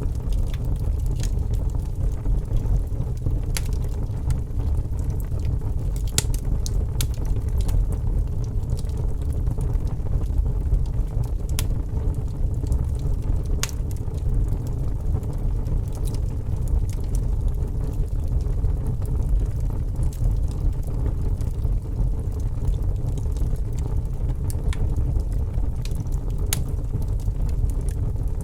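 Wood fire crackling in a fireplace: scattered sharp pops and snaps, a few each several seconds apart, over a steady low rumble.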